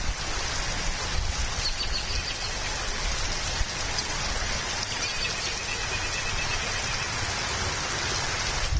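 Steady rain hiss, with a faint run of high chirps about halfway through.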